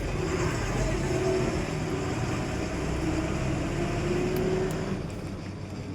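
Steady road-traffic background with a vehicle engine running, its hum wavering and fading away about five seconds in.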